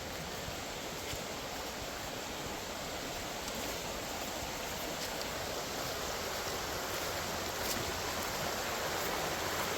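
A creek running high after flooding, its water rushing steadily and getting a little louder toward the end.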